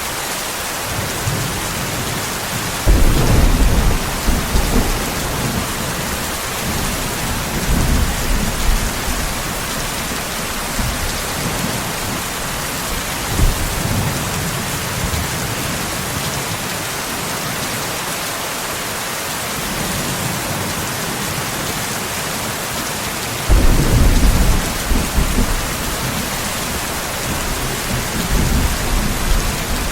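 Steady rain with rolling thunder. Two strong rumbles break in suddenly about three seconds in and again about two-thirds of the way through, with weaker rolls in between.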